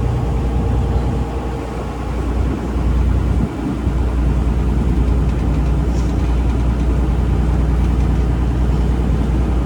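Taxi boat's engine running steadily, a continuous low drone.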